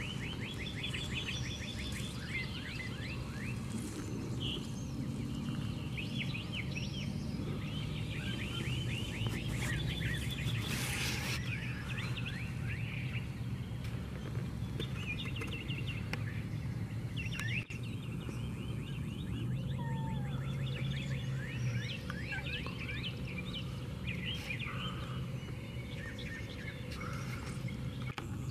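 Birds chirping outdoors in quick repeated runs of short notes, over a steady low hum.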